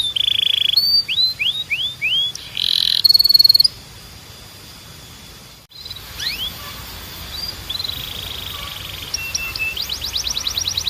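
Canary singing: a run of falling whistled notes and a buzzy trill, a pause of about two seconds partway through, then quieter phrases and a quick run of rising notes near the end.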